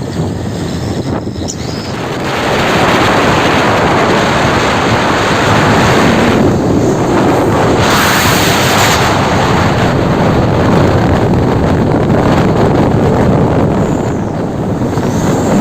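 Heavy truck passing close by on the highway: steady engine and tyre noise that swells about two seconds in and eases near the end, with wind on the microphone.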